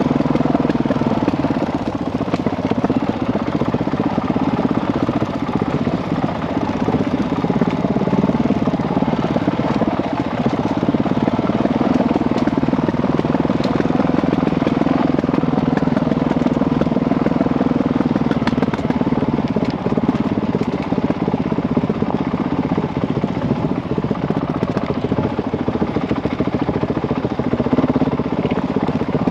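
Honda CRF dirt bike's single-cylinder four-stroke engine running steadily under way on a trail, its note drifting gently up and down with the throttle.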